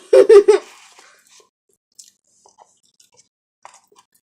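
A short loud burst of voice in the first half-second, then faint scattered clicks and smacks of chewing cake.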